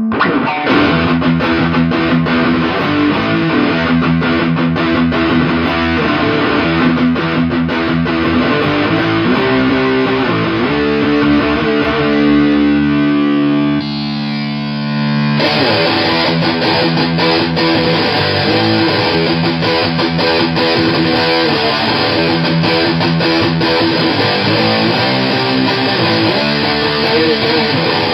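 Heavily fuzzed electric guitar playing chugging metal riffs through solid-state amplifiers, with a held note near the middle. About fifteen seconds in, the tone changes abruptly as the signal is switched from one amp to the other.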